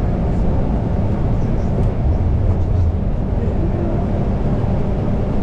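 Steady low rumble of vehicle noise, with no pauses.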